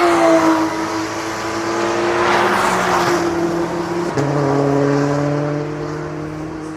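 Race cars on the Nürburgring circuit passing at speed with engines at high revs: one goes by loudly at the start and another swells past a couple of seconds in. About four seconds in, the engine note drops suddenly, then fades away.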